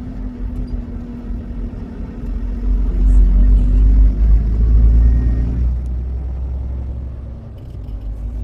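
Truck engine and road rumble, steady and low, swelling about three seconds in and easing off again near the end.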